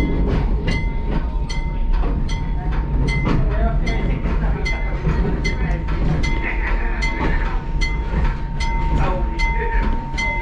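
Skunk Train railcar rolling on the track with a steady rumble. Sharp wheel clicks come about twice a second, over a thin steady whine.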